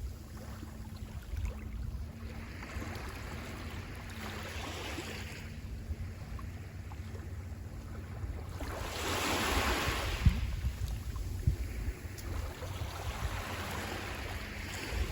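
Sea waves washing onto the shore in repeated surges, the largest about two-thirds of the way through, with wind rumbling on the microphone.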